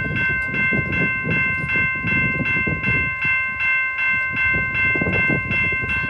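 Railroad crossing bell ringing steadily at about two and a half strikes a second, while the crossing signals are activated.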